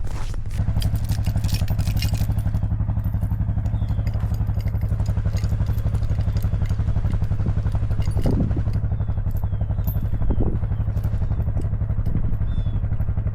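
ATV engine running steadily with a low, even throb. Clattering and scraping sounds come in the first couple of seconds.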